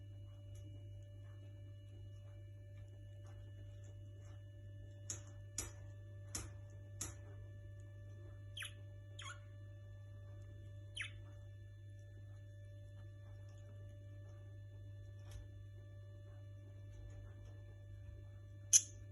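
Pet birds of a parrot and myna pair giving short, sharp chirps. There is a quick run of four high ones about five seconds in, then a few lower falling calls. One loud high chirp comes near the end. A steady electrical hum runs underneath.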